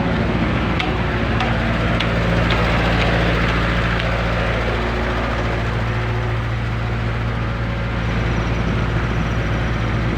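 A boat's engine running with a steady low drone, with a few faint ticks in the first four seconds.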